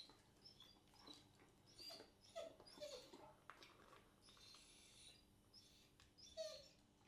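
Faint, soft whimpering squeaks from a 12-week-old Rottweiler puppy, with a few small clicks.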